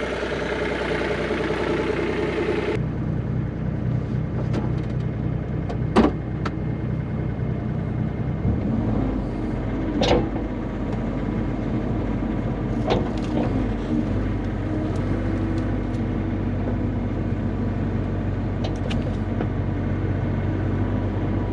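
Bobcat E35 mini excavator's diesel engine running steadily, its note changing around eight seconds in as the machine works. A few sharp knocks stand out, the loudest about six seconds in.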